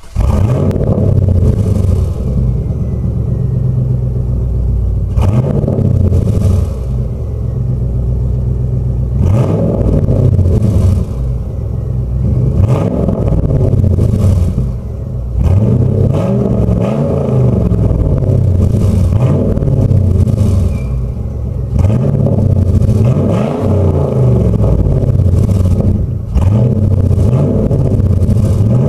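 Chevrolet Camaro Z28 V8 exhaust: the engine catches right at the start, then idles and is revved in short blips every few seconds, each rising and falling in pitch.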